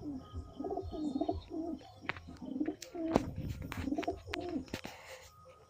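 Madrasi pigeons cooing over and over in warbling phrases, with a few sharp clicks in the middle and a short rustle near the end.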